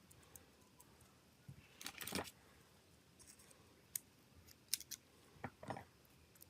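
Small hard parts and hand tools clicking and tapping during a smartphone teardown or repair, with a short scrape about two seconds in and a cluster of sharp clicks near the end.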